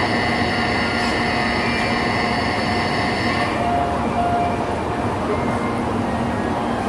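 Shinkansen train at the platform: a steady mechanical rumble with a high, even whine that cuts off about three and a half seconds in.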